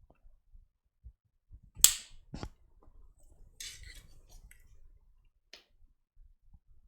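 Handling noise on a workbench: a sharp click about two seconds in, a duller knock half a second later, then a brief rustle and a faint click.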